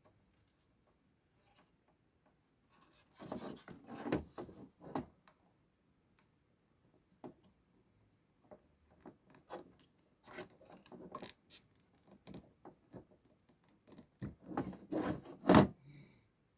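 Irregular clicks, light knocks and short scrapes of tools and parts being handled at a workbench during capacitor replacement on a TV power supply board, in three bursts, with one sharp click near the end.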